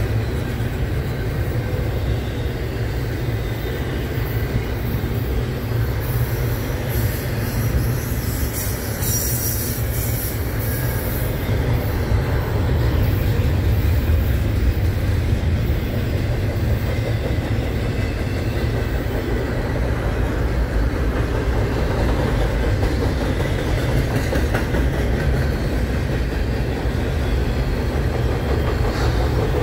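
Double-stack container well cars of a long freight train rolling past: a steady low rumble of steel wheels on rail, with a brief high-pitched wheel squeal about eight seconds in.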